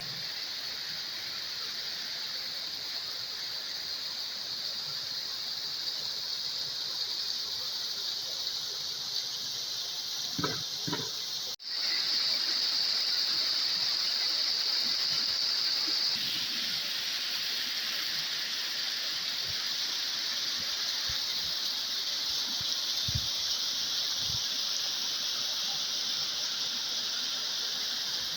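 Waterfall rushing: a steady hiss of falling water. It cuts off for an instant about twelve seconds in and comes back louder.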